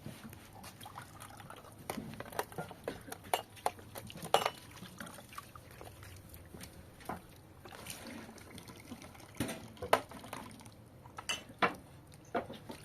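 Irregular light clicks and knocks of kitchen work, with wet, liquid handling sounds.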